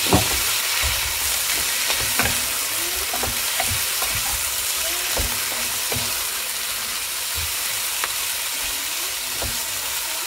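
Chicken pieces, garlic and onion sizzling in hot oil in a nonstick pot, stirred with a wooden spoon, with a steady hiss and scattered knocks as the spoon turns the chicken.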